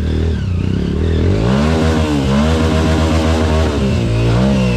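Off-road trail motorcycle engine revving: the revs climb sharply about a second and a half in, drop back, and rise again near the end, over a steady low engine note.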